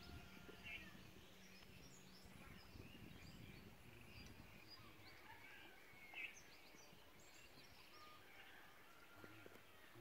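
Faint rural outdoor ambience with many short, scattered bird chirps and calls.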